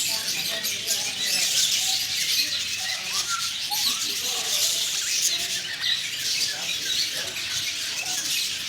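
A flock of parakeets chattering: a dense, steady mass of many short, high chirps and squeaks overlapping throughout.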